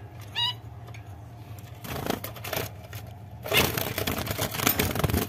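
Rustling and scraping as the nest box and nesting material are handled, loudest in the second half. A single short zebra finch chirp about half a second in.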